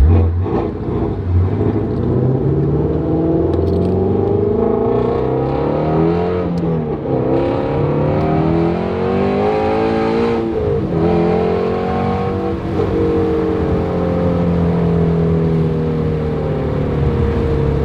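Ford Mustang Shelby GT350R's 5.2-litre flat-plane-crank V8 pulling hard through the gears, the revs climbing and then dropping sharply at upshifts about six and a half and ten and a half seconds in. It then settles into a steady cruise.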